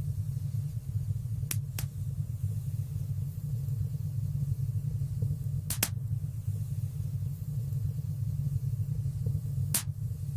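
Fire burning in a stone fireplace: a steady low rumble with a few sharp crackles, two close together a second or two in, one about halfway, and one near the end.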